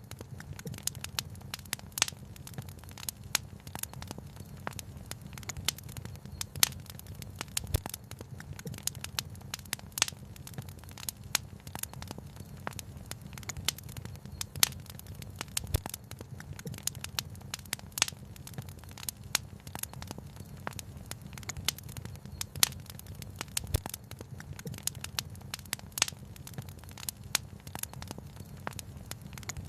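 Wood fire crackling: a steady stream of irregular sharp snaps and pops, a few much louder than the rest, over a low steady rumble.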